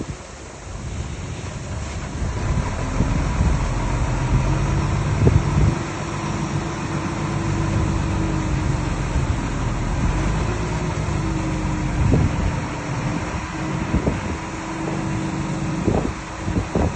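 Diesel engine of heavy earthmoving machinery running under varying load, its note drifting up and down, with a few sharp clanks and wind on the microphone.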